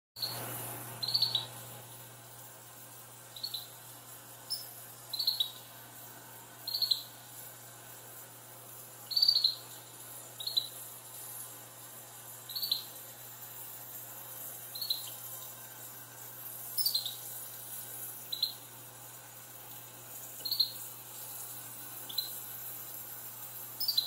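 Pet bird giving short, sharp chirps, each slightly falling in pitch, repeated every one to two seconds over a steady high hiss.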